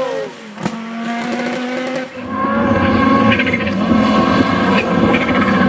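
Audi S1 E2 Group B rally car's turbocharged five-cylinder engine: a sharp pop about half a second in, then the engine holds steady revs and gets louder from about two seconds in.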